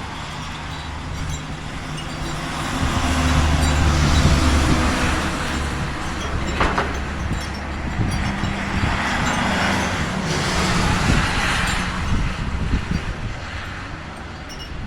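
A motor vehicle's engine running with a steady low hum that grows louder about three to six seconds in, under a rushing hiss that swells twice.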